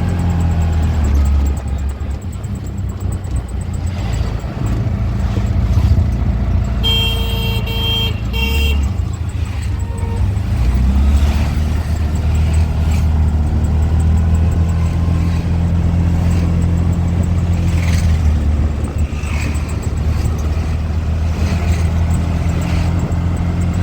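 Auto-rickshaw engine running underway, a steady low drone whose pitch shifts a couple of times. A vehicle horn honks in a few short blasts about a third of the way in.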